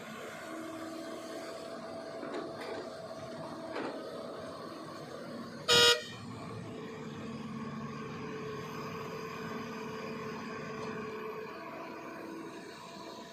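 Diesel engine of a Kobelco SK200-8 excavator running steadily while loading, with one short, loud horn blast a little before halfway through.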